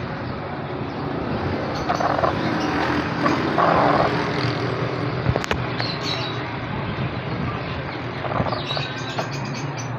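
Aviary birds chirping and calling over a steady, noisy background rumble, with one sharp click about five and a half seconds in.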